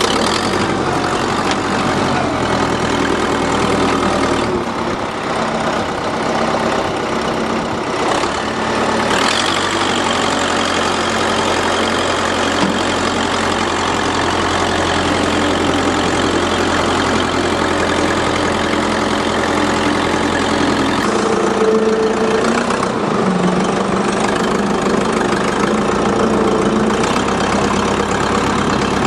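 Engine of a vehicle towing a car, running steadily under light load, its pitch shifting a few times as the speed changes.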